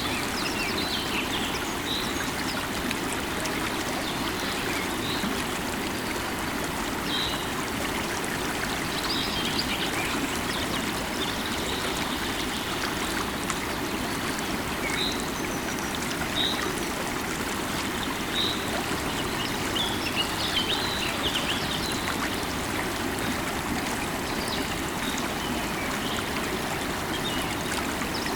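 River water running steadily over rocks, with small birds giving short, high chirps now and then over the rush.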